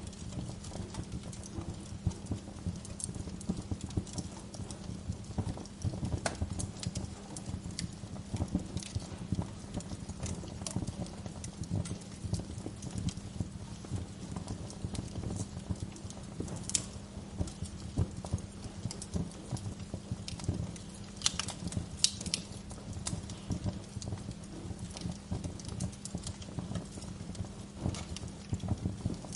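Wood fire crackling in a fireplace: a dense, irregular low crackle with scattered sharper pops, a few louder ones about two-thirds of the way through.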